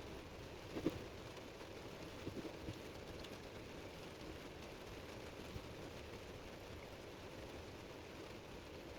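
Quiet steady background noise with a few soft knocks, one about a second in and a small cluster around two and a half seconds in.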